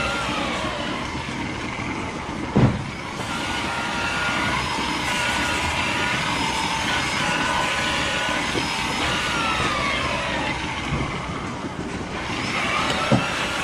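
Steady machine noise with whining tones that slide up and down, broken by two sharp knocks, one about two and a half seconds in and one near the end.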